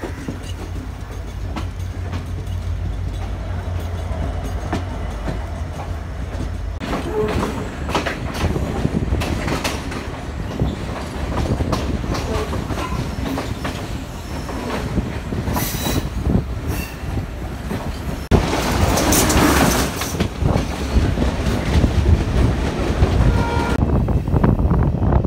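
Passenger train running along the track, its wheels and carriages rattling over the rails with a steady low rumble. The noise grows louder about 18 seconds in.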